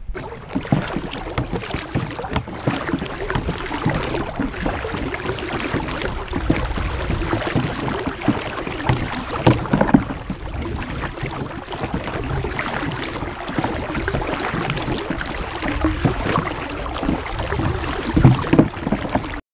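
Kayak being paddled: the paddle blades dip and splash irregularly, and water rushes along the hull.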